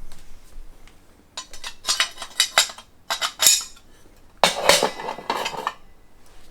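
Black-skin iron fire pit parts clinking against each other as they are fitted together: a run of light metal clinks, then a longer, louder clatter about two-thirds of the way in.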